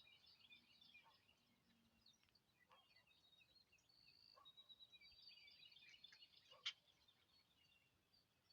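Several songbirds singing and chirping faintly, short high chirps and trills overlapping, with a sharp click about two-thirds of the way through.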